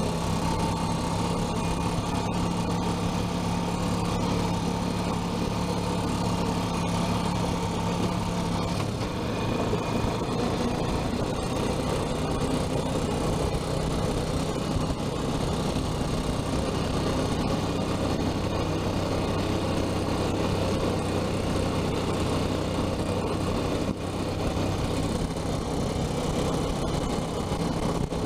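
Engine idling steadily, its pitch dropping slightly about nine seconds in.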